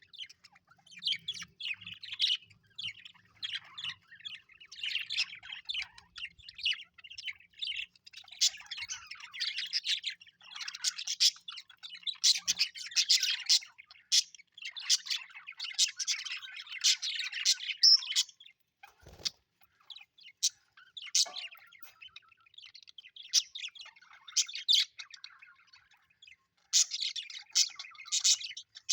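Budgerigars chirping and warbling in fast, busy chatter, in runs of a second or two with short pauses between.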